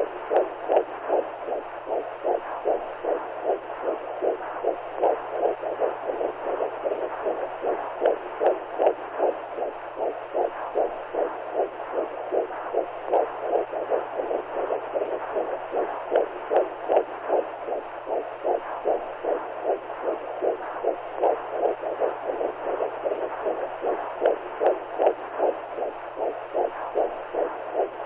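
Womb sound for soothing a newborn: a muffled heartbeat pulsing evenly through a steady whooshing rush, with a faint low hum underneath.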